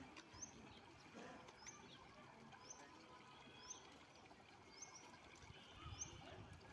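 Faint bird call: a short high chirp repeated about once a second, over low background hiss.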